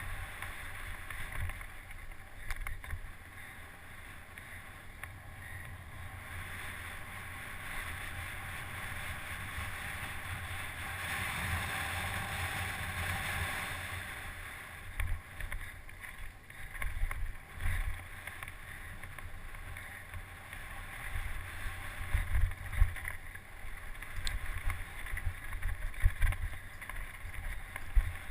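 Wind rushing over the microphone, with irregular low thumps and rattles from a mountain bike riding over rough ground. The thumps grow more frequent and louder about halfway through.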